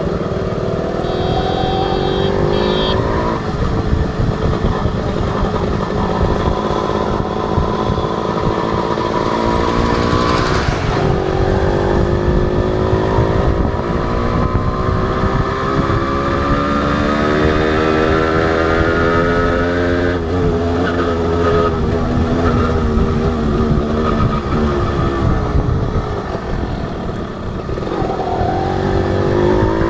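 Honda H100S single-cylinder two-stroke motorcycle engine under way, its pitch climbing as it pulls and dropping back at gear changes or off the throttle, about three times, over low wind rumble.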